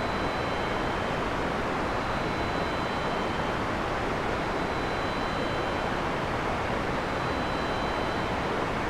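Heavy rain falling steadily on a forest, an even rushing hiss with no thunder, and two faint steady high tones above it.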